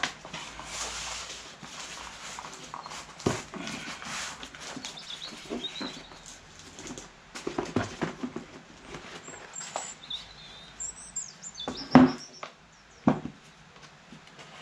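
Cutting out a paper gasket by hand: scraping and rustling of the gasket material with scattered knocks and clicks of tools on the bench. The loudest knock comes near the end, followed by another a second later. A few short, high chirps are heard in the second half.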